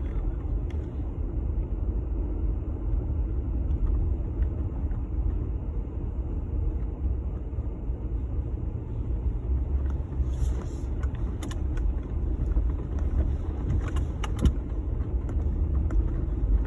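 Jeep Gladiator driving along a snow-covered trail: a steady low rumble of engine and tyres, with a few light clicks and rattles in the second half.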